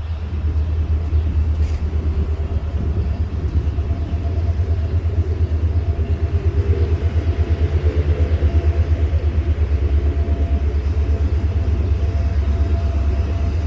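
Train engine running with a deep, rapid, even throb and a faint steady whine above it.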